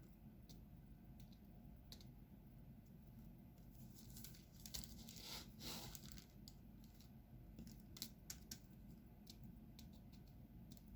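Faint, scattered small clicks and taps of diamond painting work: a drill pen picking up resin drills and pressing them onto the sticky canvas. A brief crinkling rustle comes about four to six seconds in, and a few sharper clicks a couple of seconds later.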